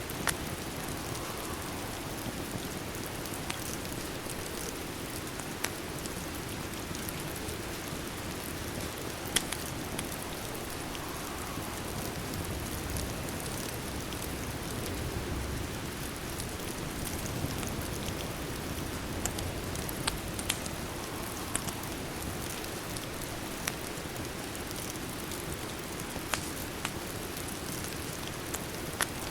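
Steady rain hiss mixed with the occasional sharp crackle of a wood fire, a dozen or so single pops spread through.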